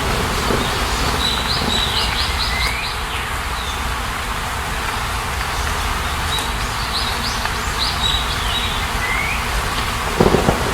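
Outdoor nature ambience: a steady rushing noise with birds calling over it, a quick run of high chirps and a rising slur early on and again later. A few low thumps near the end.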